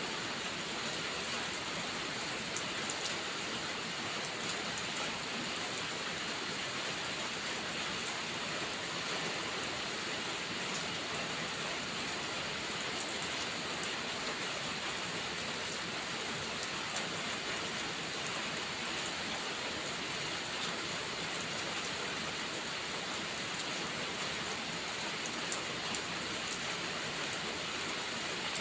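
Steady rainfall, an even hiss of rain on surfaces with occasional faint ticks scattered through it.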